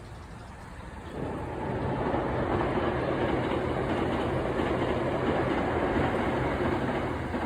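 Hankyu electric train passing on the track, its wheels and motors running with a low hum underneath. The sound comes up quickly about a second in and falls away near the end.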